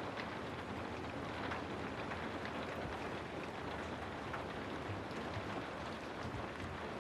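Steady rain ambience, an even hiss of rainfall with a few faint drop ticks scattered through it.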